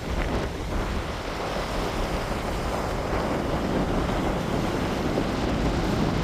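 Strong wind blasting across the microphone: a loud, steady rushing with a heavy low rumble of buffeting.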